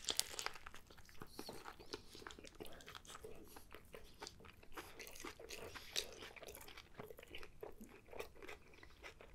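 A man biting into and chewing a big mouthful of a breakfast burger on a toasted everything bagel, heard as a faint, rapid run of small mouth clicks.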